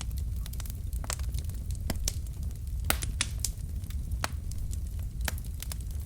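Wood fire burning in a fireplace: logs crackling and popping in irregular sharp snaps over a steady low rumble of the flames, with one louder pop about three seconds in.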